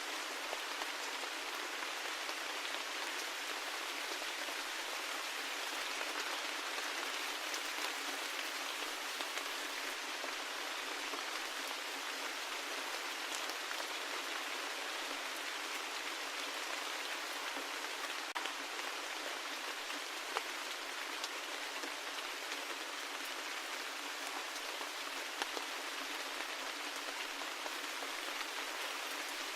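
Steady rain, a dense even patter of drops falling on a surface, with a few slightly louder single drops standing out now and then.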